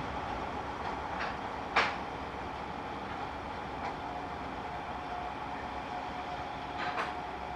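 Network Rail test train running past: a steady rumble with a faint high whine that comes through more clearly about halfway. Two sharp clicks, one about two seconds in and one near the end.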